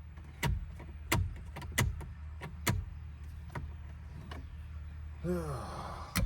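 Sharp plastic clicks and knocks, about seven of them at irregular intervals roughly a second apart, as the Ford F250's dash instrument cluster and its retaining tabs are worked by hand. A short grunt comes about five seconds in, over a steady low hum.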